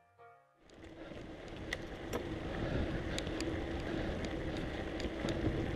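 Mountain bike being ridden: steady tyre and wind noise on the camera microphone with scattered small clicks, starting about half a second in and building slightly.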